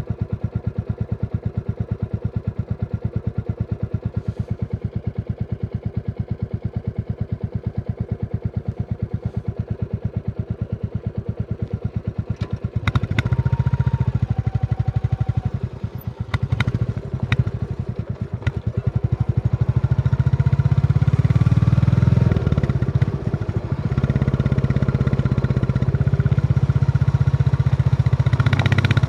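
Royal Enfield Classic 350's single-cylinder engine idling with an even, regular thump, then getting louder as the bike pulls away about halfway through. A few sharp clicks follow, and the engine runs steadily under load near the end.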